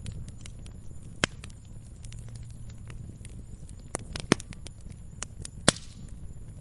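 Wood fire crackling in a fireplace: a low steady rumble of burning with scattered small snaps and pops, and three louder sharp pops, the loudest near the end.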